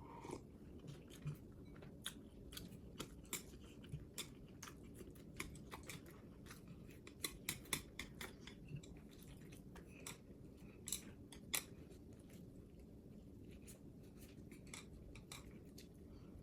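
Faint, irregular clicks and crunches of someone eating, a couple of dozen small sharp sounds spread unevenly, several close together in the middle.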